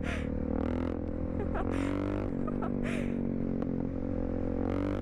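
Supermoto motorcycle engine running steadily while under way, its note shifting about two seconds in, with short rushes of wind noise on the microphone.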